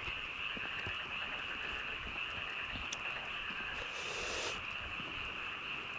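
Steady chorus of frogs calling in a spring field, a continuous high-pitched trill.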